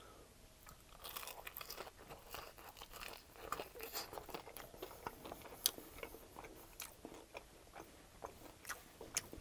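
Close-miked crunching and chewing of an extra-crispy air-fried chicken wing in barbecue honey hot sauce. Many short, irregular crunches start about a second in as the skin is bitten and chewed.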